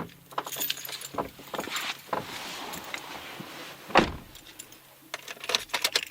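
Pickup truck door being handled, with a loud thump about four seconds in as it shuts, among smaller clicks and rattles.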